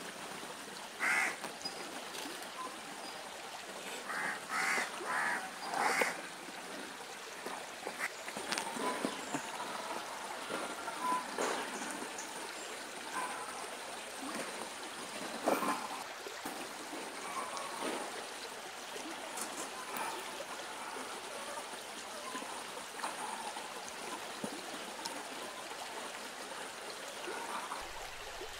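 Running water from a stream, steady throughout, with a cluster of short bird calls in the first six seconds and scattered fainter calls and clicks later.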